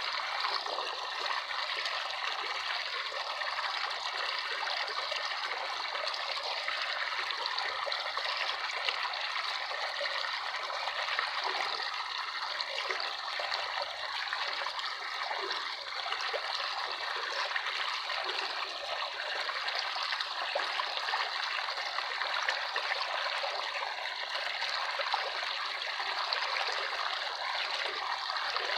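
Steady splashing and trickling of running water, like a small stream or brook, with no low rumble.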